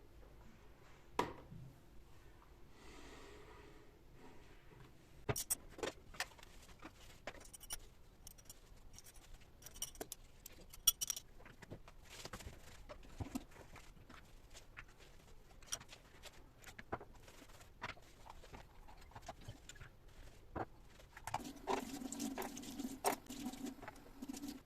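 Scattered light clicks, taps and rustles of small household objects being handled, with a louder, noisier stretch near the end.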